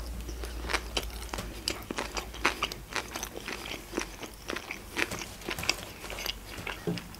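Close-miked chewing of a mouthful of sushi roll: a run of short, irregular wet clicks from the mouth.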